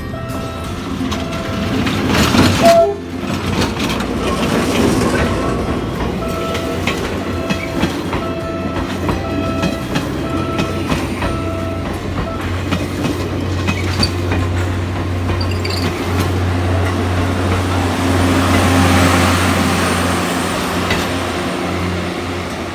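A Philippine National Railways train running past: a steady diesel engine hum with wheels rolling on the rails, louder near the end. A loud, sharp rise comes about two to three seconds in.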